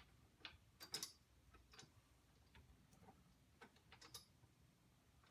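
Faint, irregularly spaced metallic clicks and ticks of a 12mm socket ratchet tightening the bolts of the rack's side-mounted lights, with a louder pair about a second in and a cluster around three to four seconds.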